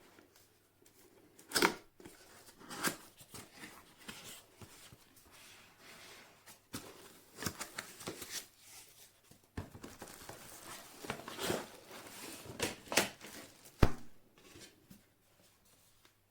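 Packaging or plastic being handled by hand: irregular crinkling and tearing sounds with scattered sharp clicks and knocks, the loudest knock near the end.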